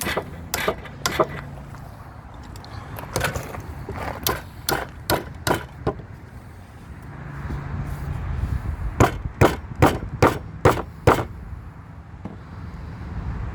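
A wood chisel being struck repeatedly to cut away timber from a wooden gate: three runs of sharp blows, about two a second, over a steady low hum.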